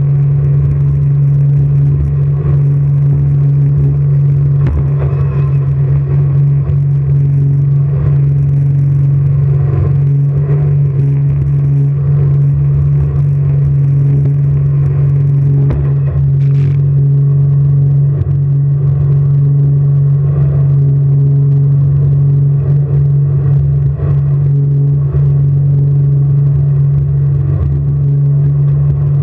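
Jet boat engine running at a steady pitch: a loud, constant low drone that holds unchanged throughout.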